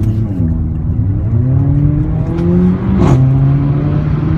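Mercedes-Benz CLA45 AMG's turbocharged four-cylinder engine accelerating, its note climbing for about two seconds, then dropping sharply with a short crack as the dual-clutch gearbox shifts up about three seconds in; it then runs on at steady revs.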